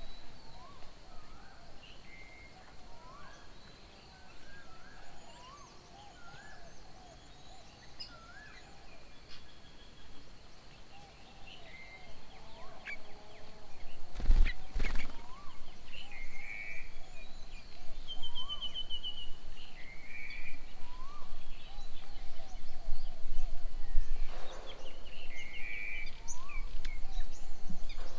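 Several wild birds calling at once, with repeated short whistled notes and chirps. A single sharp knock comes about halfway through, and the background gets louder after it.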